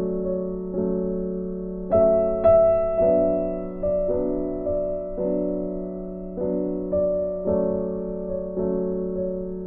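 Background piano music: slow, soft chords, each struck about once a second and left to ring out.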